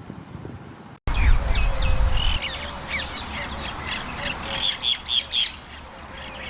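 A chorus of many birds chirping and calling, with many short, quick calls overlapping, starting abruptly about a second in after a cut from a faint low rumble.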